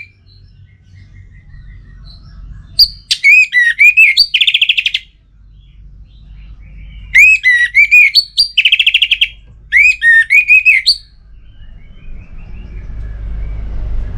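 Orange-headed thrush singing: two loud phrases of quick, varied whistled notes and fast trills, a short one about three seconds in and a longer one from about seven to eleven seconds. A steady low hum lies under it, and a low rumble rises near the end.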